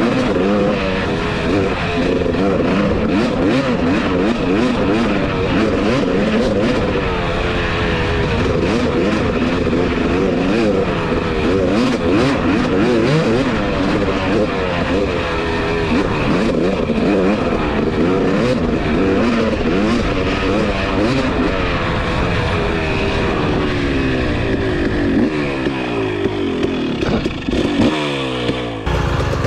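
Two-stroke dirt bike engine revving up and down over and over while riding, with wind noise. Near the end the revs fall away steadily as the bike slows.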